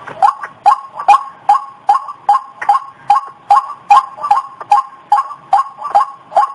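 Recorded lure call of the white-breasted waterhen (ruak-ruak): harsh two-toned calls repeated steadily and fast, about two and a half a second.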